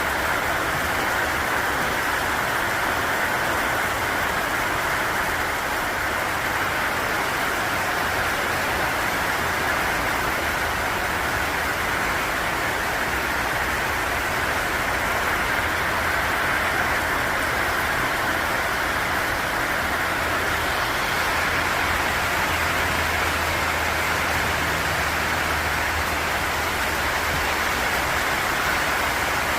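Steady heavy rain falling, an even hiss. A faint low hum joins in about two-thirds of the way through.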